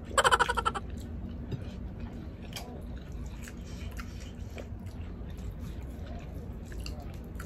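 Close-up eating sounds: chewing and small scattered clicks and smacks as food is picked up by hand from the plates. A short vocal sound, about half a second long, comes right at the start.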